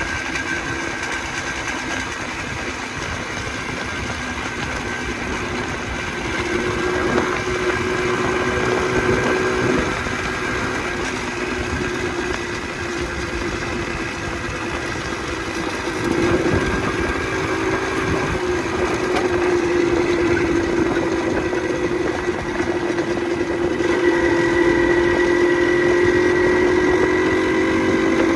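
Motorcycle engine running under way. Its pitch and loudness climb about six seconds in and ease off near ten seconds, then build again at about sixteen seconds and once more near the end.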